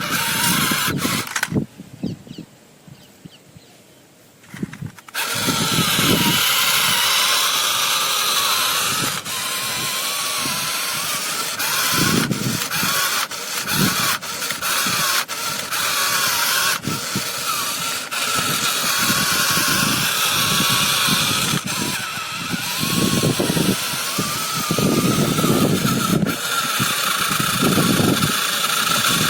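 Small motor driving a gear train, running steadily with a wavering gear whine from about five seconds in, after a few short knocks and a brief quieter stretch.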